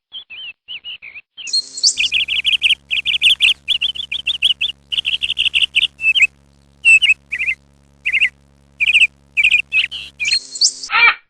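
A bird chirping in quick runs of short, high notes, sparser in the second half, with a steady low hum underneath from about two seconds in until near the end.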